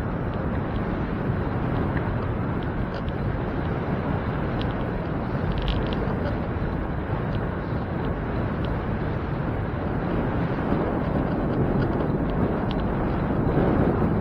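Steady wind rush on the microphone of a moving bicycle, with road noise and faint scattered ticks.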